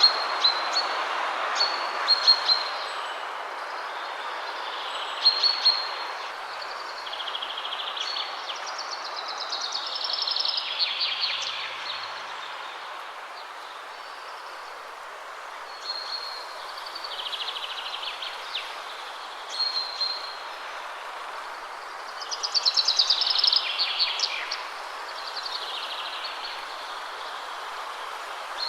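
Wind rushing steadily through trees, strongest in the first few seconds, with songbirds singing: short repeated high calls throughout and two longer trilled songs that fall in pitch, about ten seconds in and again near the end.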